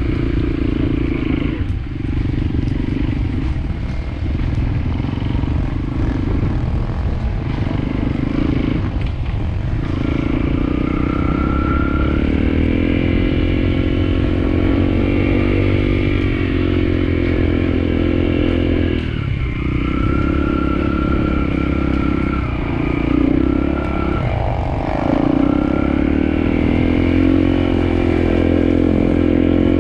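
Trail motorcycle engine pulling uphill, its pitch rising and falling with the throttle, with brief drops in revs every few seconds as the rider shifts or eases off. A rising rev near the end.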